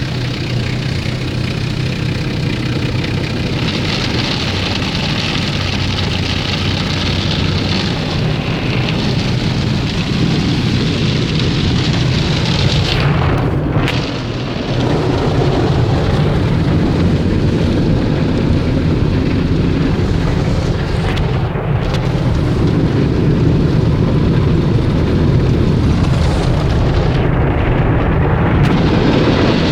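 Automatic touch car wash working over the car, heard from inside the cabin: a loud, steady rush of water and washing machinery on the body, over a constant low hum. The rush drops off briefly about 14 seconds in.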